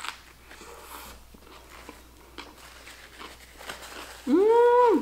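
Quiet chewing of a bite of a sub sandwich with lettuce and vegetables, then near the end a loud, short, high-pitched closed-mouth "mmm" that rises, holds and falls.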